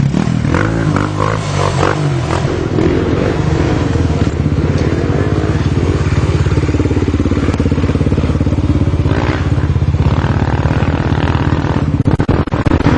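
Enduro motorcycle engine running close by, its pitch rising and falling as the rider works the throttle; the sound changes abruptly near the end.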